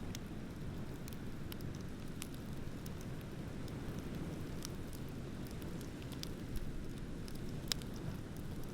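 Wood bonfire crackling, with scattered sharp pops, two louder ones near the end, over a steady low rumble of ocean surf.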